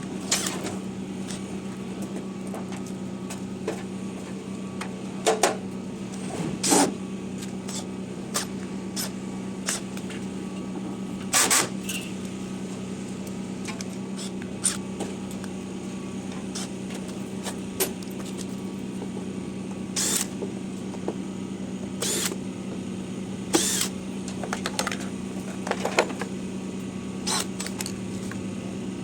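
A steady mechanical hum runs throughout, with irregular sharp clicks and knocks scattered over it.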